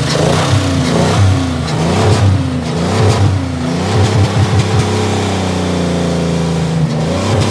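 Buick LeSabre's 3.8-litre V6 running with its oil replaced by yogurt drink, energy drink, water and dirt, revved up and down several times, then held steadier with its speed slowly sinking before picking up again near the end.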